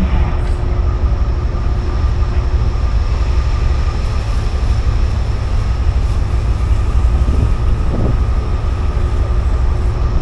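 Amtrak Auto Train passenger train running, heard as a steady loud low rumble with a few faint steady tones over it.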